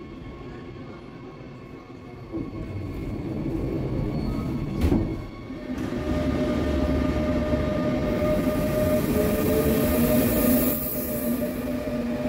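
Electric passenger train, hauled by a Siemens Taurus (ES 64 U2) locomotive, rolling along the platform as it pulls out, with wheels running on the rails and a steady electric whine that rises slightly. A single sharp knock comes about five seconds in, and a hiss rises and fades a few seconds later.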